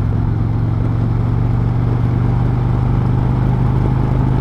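Harley-Davidson V-twin engine pulling steadily under throttle as the motorcycle accelerates past another bike. The engine note gets a little louder toward the end, then eases off.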